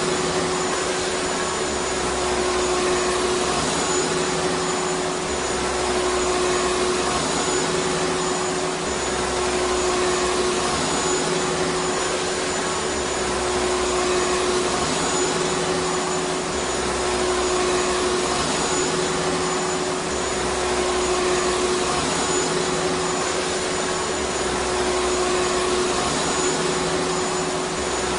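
Vacuum cleaner motor running continuously: a steady rushing of air with a constant mid-pitched hum, unchanging in loudness.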